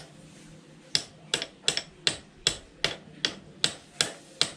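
Sharp, light taps struck in a steady rhythm, one just at the start and then about ten more at roughly two and a half a second: tapping a new rubber mount onto a Yamaha SS110's rear shock.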